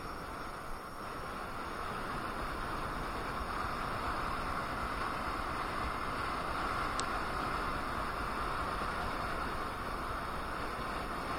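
Steady rushing noise of wind and tyre on road while riding a KingSong KS18S electric unicycle, growing slightly louder after the first second.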